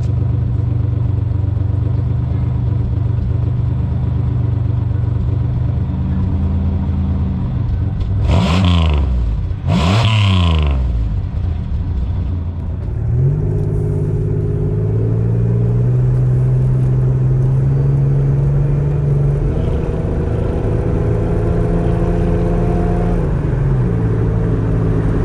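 Supercharged Pontiac 6000 wagon's engine running through its new MagnaFlow muffler: a steady idle, two quick revs about eight and ten seconds in, then running at a higher, steadier speed with a few small steps in pitch.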